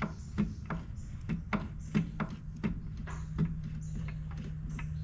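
Oil pump drive gear in a DeSoto Hemi engine block clicking as it works up and down while the camshaft is worked out; the gear is loose because the distributor is not in place to hold it down. Light, irregular clicks two or three a second, thinning out after about three and a half seconds, over a steady low hum.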